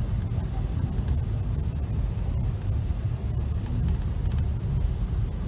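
Steady low rumble of a Virgin Pendolino (Class 390) electric train running, heard from inside the carriage.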